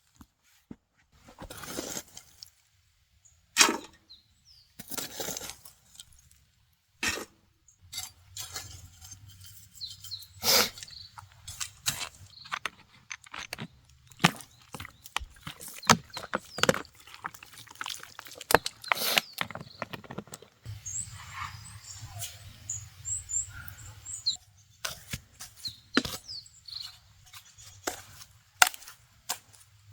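Irregular knocks, clicks and rustles, many of them short and sharp, with a low steady hum starting about a quarter of the way in and a few faint high chirps around the middle.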